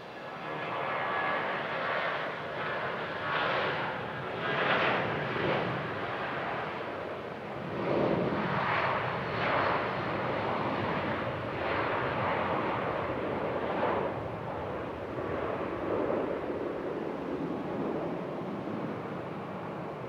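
Boeing 757-300 jet engines running: a dense, rushing noise that swells and eases every second or two.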